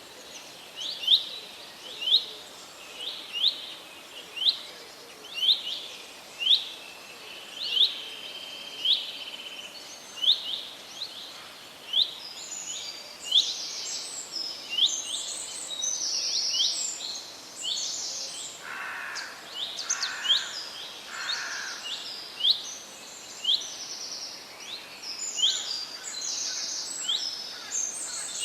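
Forest birdsong: one bird repeats short, sharp chirps about one or two times a second over a steady faint hiss. About halfway through, other birds join with higher, busier calls, and near the end a few lower calls come through.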